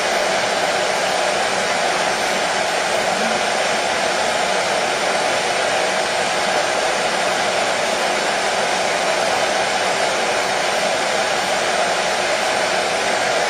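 Hair dryer blowing steadily, an even whooshing noise with no change in speed, played as soothing white noise for a colicky baby.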